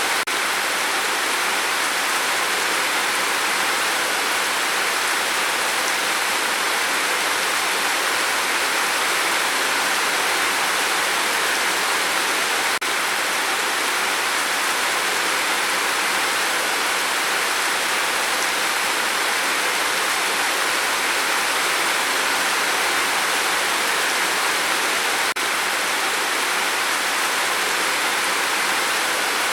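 Gentle rain falling steadily, an even hiss of many drops without change.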